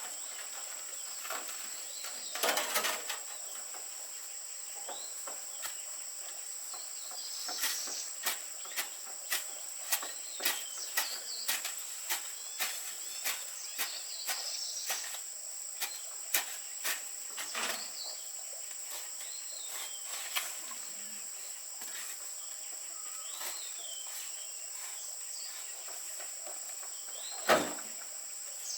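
Rural ambience: a steady high-pitched insect drone with birds chirping now and then. A run of sharp taps, about two a second, starts about eight seconds in and stops about ten seconds later. A louder knock comes near the start and another near the end.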